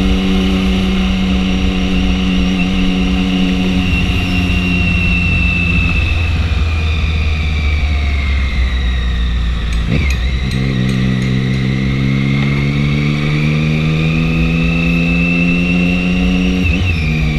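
Triumph 675 motorcycle's three-cylinder engine running on the road. It holds steady revs, then eases off. After a short break about ten seconds in, like a gear change, the revs rise steadily under load.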